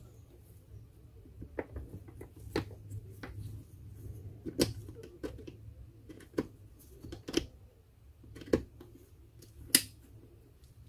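Parts of an angle grinder being handled and fitted by hand, giving about ten sharp, irregularly spaced clicks and taps over a faint low hum.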